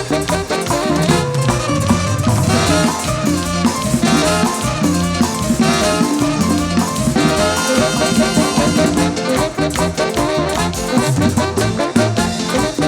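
Live band playing an instrumental stretch of a Latin dance tune, with drum kit, percussion and brass over a steady beat.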